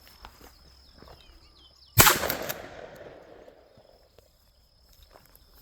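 A single gunshot about two seconds in, sharp and loud, with a tail that dies away over about a second and a half. Faint bird chirps come just before it.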